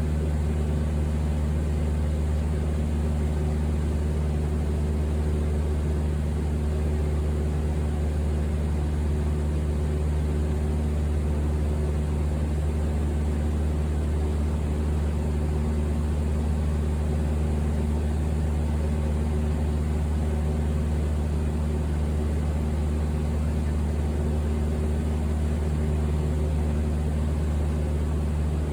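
Steady engine drone and rushing air heard inside an airliner cabin, a constant low hum with an even hiss over it.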